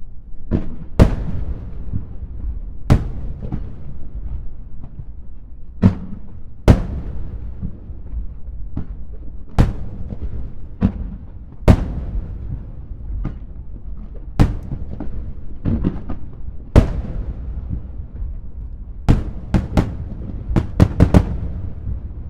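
Aerial firework shells bursting in irregular succession: sharp bangs every second or two over a continuous low rumble, with a quick run of about half a dozen bangs near the end.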